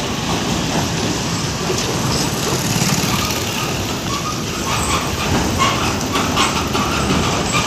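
A truck driving, with a steady road noise and frequent short rattles and knocks throughout, and a few brief squeaks in the second half.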